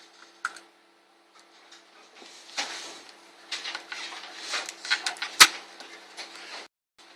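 Laptop parts being handled: irregular scrapes, rustles and small clicks of metal and plastic as the heatsink and fan cooling assembly is worked loose and lifted off the motherboard, with one sharp click a little past the middle as the loudest sound. The sound cuts off abruptly near the end.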